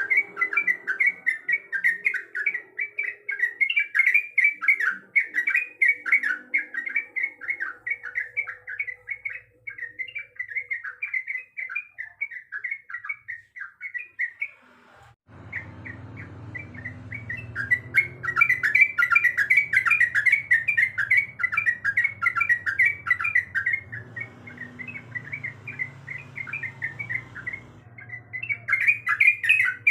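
Sooty-headed bulbul (trucuk) singing a fast, continuous chatter of short bubbly notes. There is a brief break about halfway, after which a low hum runs under the song.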